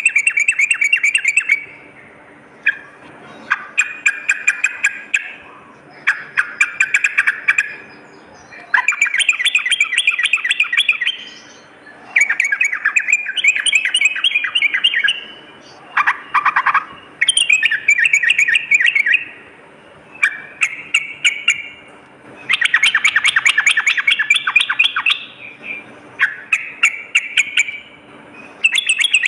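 Yellow-vented bulbul (trucukan) singing: about nine bubbly phrases of fast, closely packed notes, each one to two seconds long with short pauses between.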